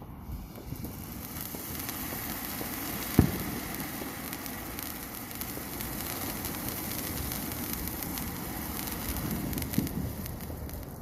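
Firework fizzing and crackling steadily, with one sharp bang about three seconds in and a few smaller pops near the end.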